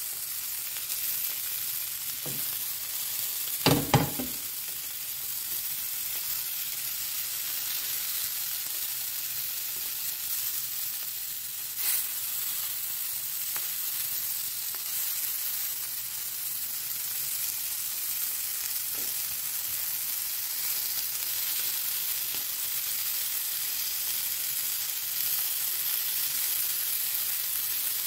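Paneer tikka skewers sizzling as they shallow-fry in oil in a frying pan, with a few knocks as the wooden skewers are turned. The loudest is a double knock about four seconds in.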